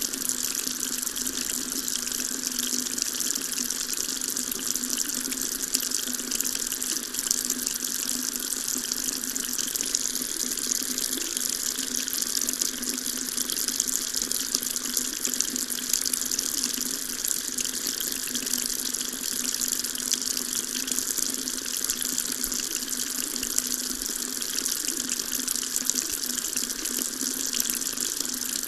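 Water running steadily from a tap, a constant splashing stream without breaks.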